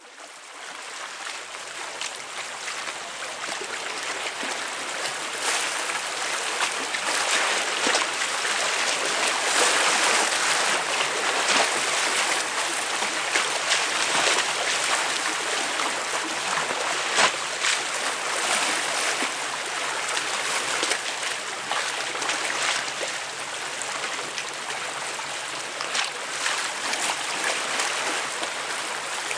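Sea waves breaking and splashing against concrete tetrapods, a continuous rushing wash that swells and eases with sharper splashes here and there.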